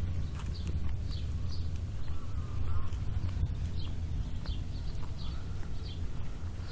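Steady low rumble of a car driving, with scattered short, high chirps over it.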